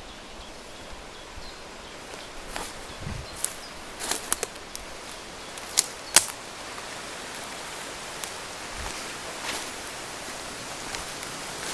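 Footsteps on twigs and forest litter, with several sharp cracks about four to six seconds in and a few lighter ones later, over a steady outdoor hiss.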